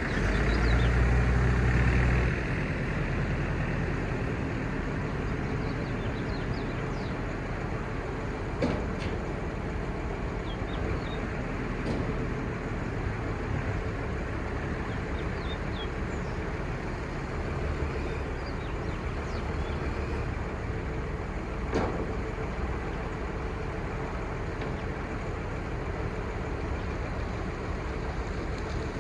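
Crane truck's 5.9L Cummins six-cylinder turbo diesel running steadily, heavier and louder for the first two seconds before settling, with two short sharp clicks along the way.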